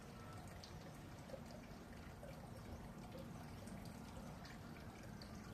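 Red panda chewing bamboo: faint, scattered crisp crunching clicks.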